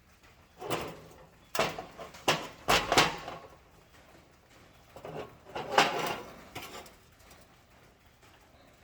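Clatter of parts being handled: short knocks and rattles in two bursts, the first about a second in and the second around six seconds in.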